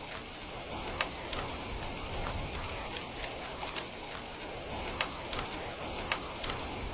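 Steady rain with a constant hiss, and raindrops striking a nearby surface in irregular sharp ticks, a few louder than the rest.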